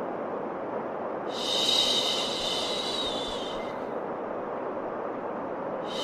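Steady white noise with a long 'shhh' shushing sound laid over it, starting about a second in and lasting a little over two seconds. A second shush begins at the very end.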